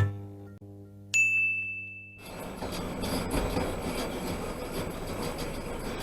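A held musical tone fading out, a single bright ding about a second in, then steady rumbling road noise from a moving truck.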